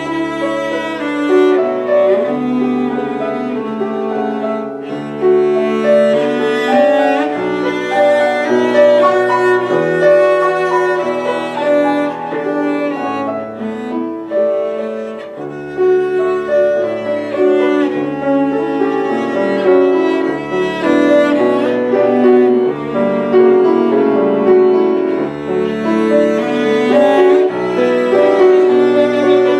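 A bowed string instrument playing a slow classical melody with piano accompaniment, the notes changing smoothly over sustained chords.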